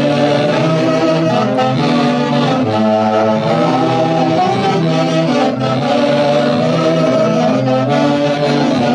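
A festive Andean orquesta típica band playing a lively tune, with saxophones carrying the melody in harmony over a steady bass line.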